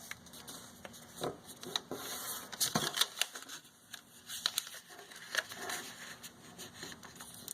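A sheet of paper being folded and creased by hand, rustling and crackling in short irregular bursts.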